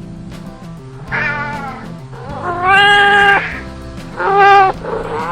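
Domestic cat meowing three times, the middle meow the longest and loudest, over background music.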